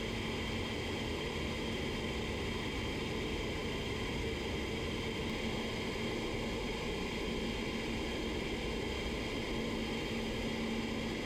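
Steady rushing air with a faint low hum, unchanging throughout.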